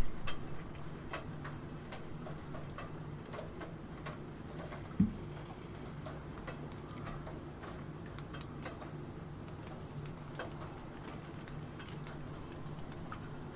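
Computer keyboard typing: irregular, scattered key clicks over a steady background of rain, with one low thump about five seconds in.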